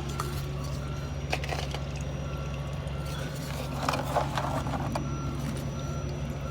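A steady low mechanical hum with a short, high electronic beep repeating a little faster than once a second, and a few faint clicks and rustles near the start and in the middle.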